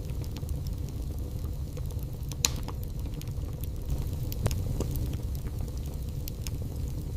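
Wood fire crackling in a fireplace over a steady low rumble, with scattered small clicks and a sharp pop about two and a half seconds in and another near four and a half seconds.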